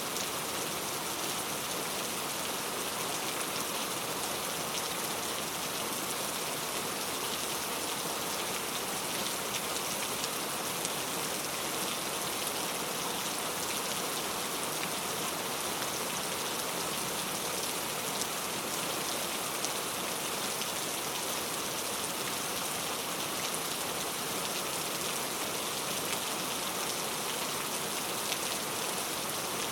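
Steady rain falling, a continuous even hiss of many small drops.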